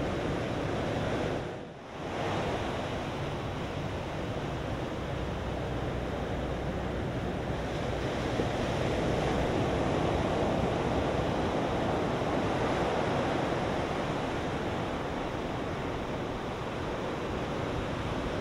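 Ocean surf from a hurricane swell breaking steadily, with wind on the microphone. The sound briefly drops away about two seconds in, then returns.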